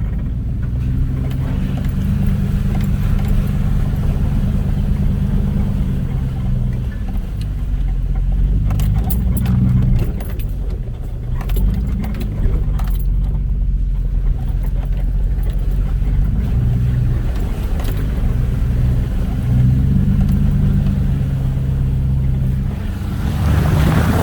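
Off-road vehicle engine running at low, varying revs while crawling a rough trail, with scattered rattles and knocks from the bumps. Near the end a rushing hiss rises.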